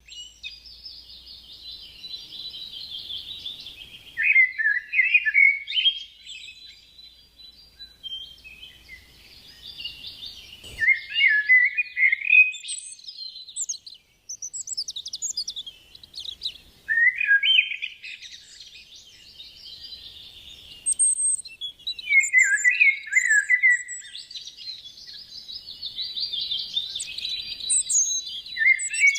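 Birds chirping and singing in repeated bouts of high trills and chirps, with a single sharp click a little before the middle.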